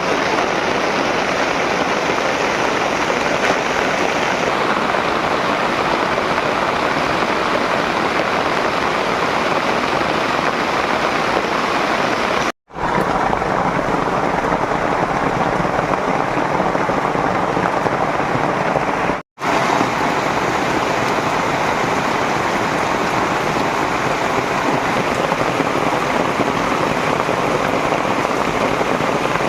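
Heavy rain falling steadily, a dense even hiss. It breaks off for an instant twice, about twelve and nineteen seconds in.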